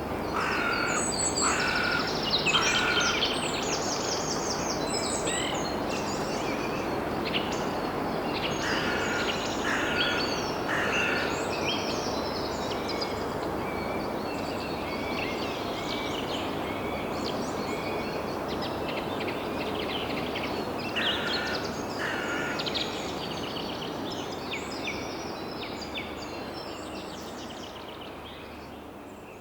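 Several wild birds chirping and singing over a steady, even background noise of the outdoors; the whole sound fades out near the end.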